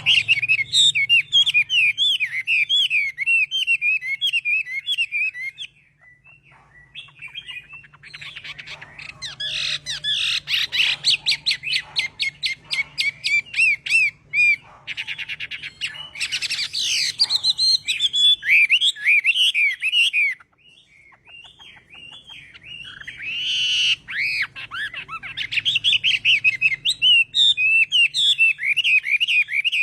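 Chinese hwamei (họa mi) singing: loud, varied phrases of rapid repeated whistled notes and trills in three long bouts, broken by short pauses about six and twenty seconds in.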